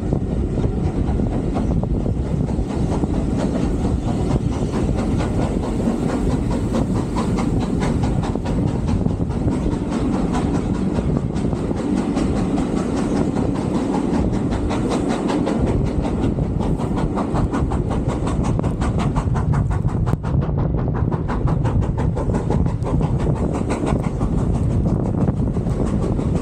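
Heritage steam train on the move, heard from on board: a steady running rumble with a fast, even ticking rhythm.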